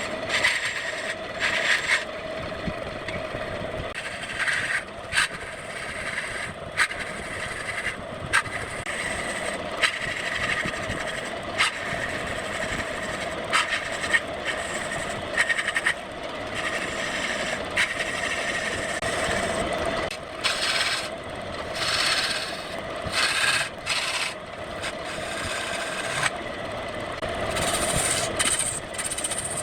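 Wood lathe running with a steady hum while the spinning wood is worked, giving rough scraping and rubbing sounds that come and go, with scattered sharp clicks.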